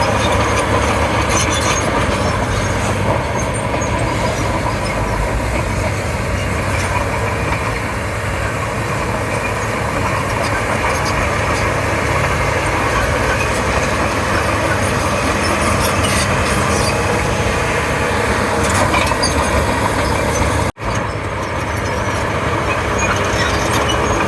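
Komatsu D31P bulldozer's diesel engine running steadily under work, with scattered clanks, breaking off for a moment about three-quarters of the way through.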